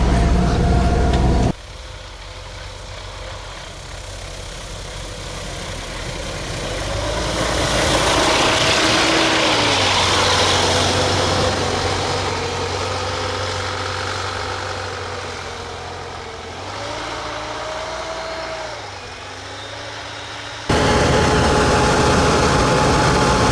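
Tucker Sno-Cat engine running, heard as a loud low drone. About a second and a half in, it cuts to a quieter engine sound that swells and fades again, its pitch rising and falling. Near the end it cuts back to the loud steady drone.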